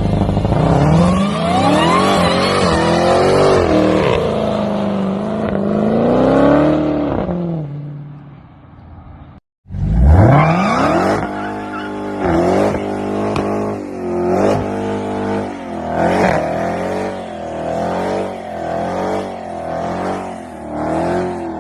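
Dodge Challenger V8 engine revving hard, its pitch climbing and wavering, then fading away. After a sudden cut it revs up again and keeps swinging up and down in pitch about once a second.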